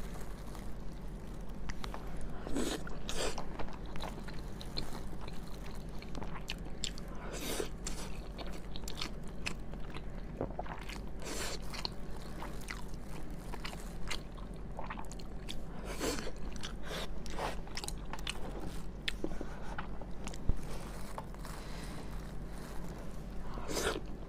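Close-miked eating: a person chewing and biting food, with many small irregular clicks and a louder mouthful every few seconds. A faint steady hum sits underneath.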